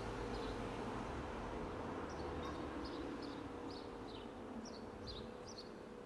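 Small birds chirping over and over in short, high calls, above a steady faint hum that slowly fades.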